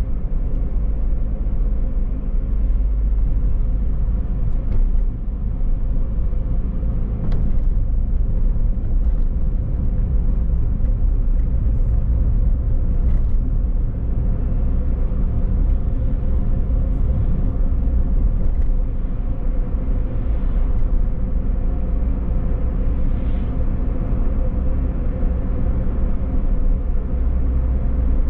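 Toyota car driving: a steady low rumble of engine and road noise, with a few faint ticks.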